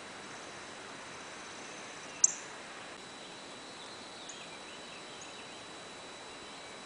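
A songbird's single loud, sharp, high chip note about two seconds in, followed by two much fainter chips. Faint bird song and a steady outdoor hiss lie underneath.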